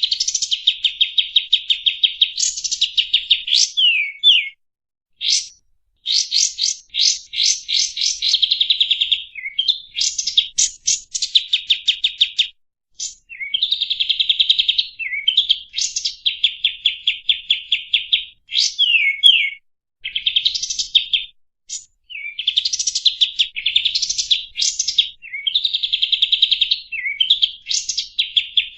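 Songbird song of fast rolling trills: long runs of rapid repeated notes in phrases a second or two long, with short gaps and quick downward-sliding whistles between them. It is a 'rol speed' masteran song, the kind played to tutor white-rumped shamas.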